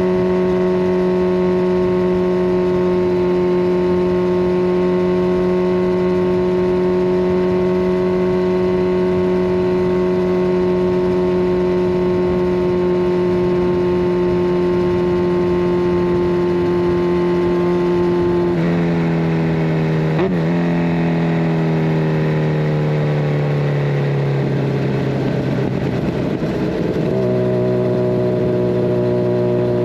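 Kawasaki Ninja 1000SX inline-four engine through a decat Scorpion Red Power exhaust, holding a steady note at constant revs while riding. About two-thirds of the way through the revs drop, with one short blip, and keep falling as the bike slows, then settle on a lower steady note near the end.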